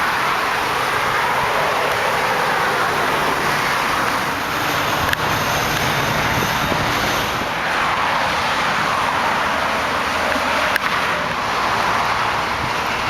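Highway traffic noise: a steady rush of passing vehicles, swelling as cars go by about eight seconds in and again near the end.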